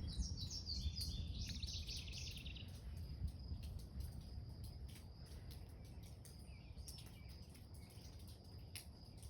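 A bird sings a quick run of high chirping notes in the first few seconds, over outdoor ambience with a steady faint high whine and a low rumble.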